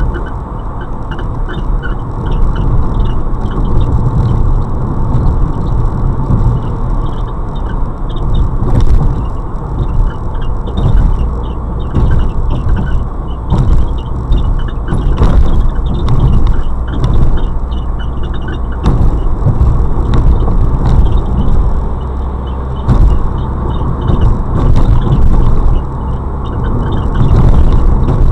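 Fiat Bravo driving, heard from inside the cabin: a steady road and engine rumble with a quick run of short, high squeaks that come and go, and a few knocks. The squeak comes with the car's motion at any speed, in gear or out, clutch pressed or not, but not under acceleration.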